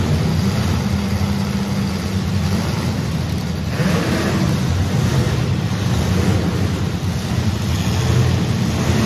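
Several compact demolition-derby car engines running hard at once, revving up and down, with a rising rev about four seconds in and again near the end.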